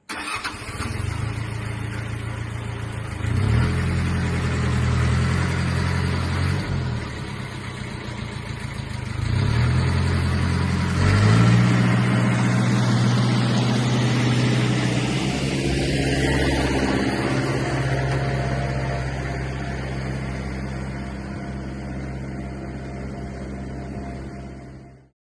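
Mitsubishi MT2201 compact tractor's diesel engine running, its speed stepping up and down a few times as the throttle is opened and closed.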